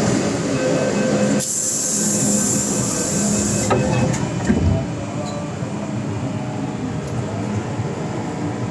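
MTR M-Train metro train running, heard from inside the car: a steady rumble with level motor tones. A high hiss lasts about two seconds from shortly after the start, and a brief thump comes about four and a half seconds in.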